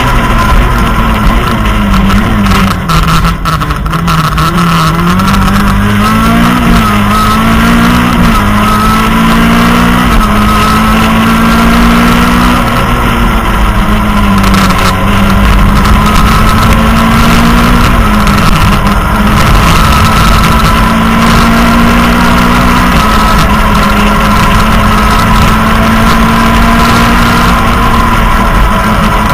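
Citroën Saxo rally car at full stage pace, heard from inside the cabin: the engine revs climb and drop again and again with gear changes and corners, over steady tyre and road noise.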